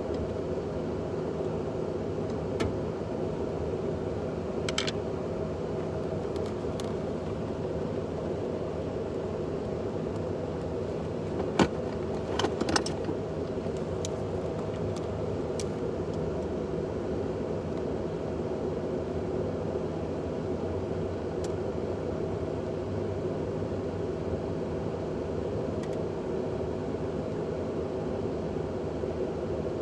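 Motor vehicle running steadily, a constant drone, with a few sharp clicks and rattles, the loudest about halfway through.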